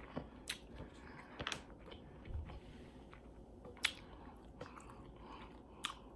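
A person chewing food close to the microphone, with scattered wet mouth clicks and a few soft crunches.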